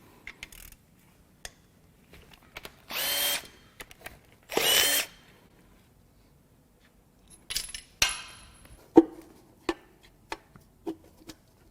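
A handheld power tool runs in two short bursts, loosening fasteners on the last connecting rod of a BMW S52 inline-six. Then come several sharp metallic clinks and clanks of loose parts being handled.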